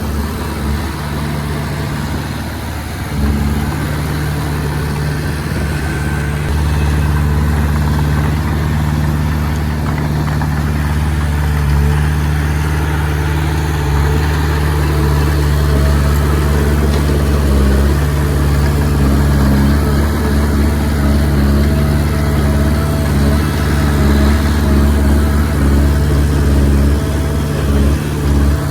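Komatsu D20P bulldozer's diesel engine running steadily, getting a little louder about three seconds in.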